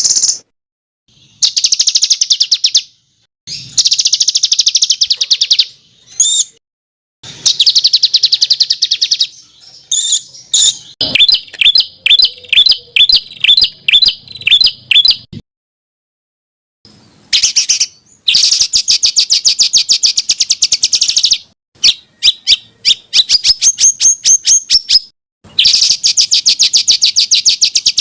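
Songbird song in loud, fast, high trilled phrases separated by short pauses, with a run of repeated sharp notes in the middle; a masteran recording meant for songbirds to copy.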